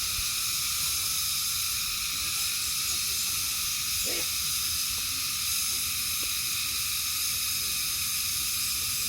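Food sizzling steadily in a hot pan: an even hiss of frying.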